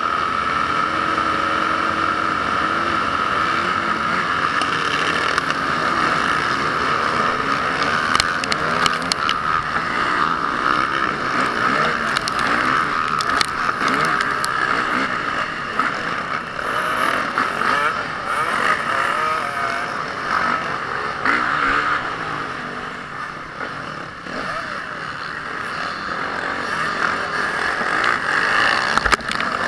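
Motocross motorcycle engines running and revving, their pitch rising and falling. The sound dips somewhat in level a little past the middle.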